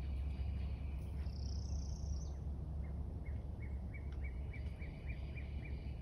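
Quiet outdoor ambience: a steady low rumble, a brief high call about a second and a half in, then a run of short high chirps, about three a second, through the second half.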